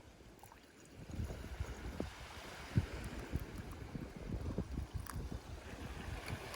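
Wind buffeting the microphone in uneven gusts, with a few faint clicks.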